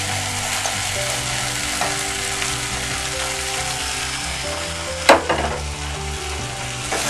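Tomato masala with green peas frying in a steel pan on the gas, a steady sizzle as boiled soya chaap pieces go in, with one sharp knock about five seconds in.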